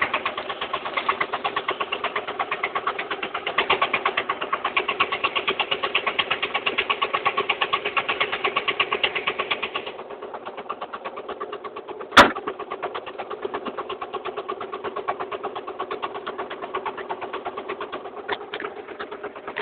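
An engine running steadily with an even, fast putter. It drops quieter about ten seconds in. There is a single sharp knock about twelve seconds in.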